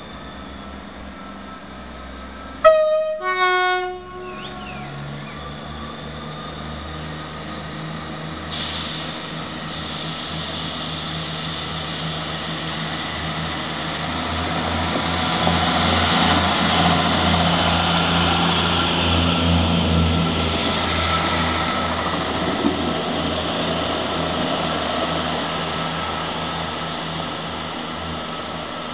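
Class 158 diesel multiple unit sounds its two-tone horn, a high note then a low note, about three seconds in. Its diesel engines and wheels on the rails then grow louder as it draws alongside and passes, and fade as it pulls away.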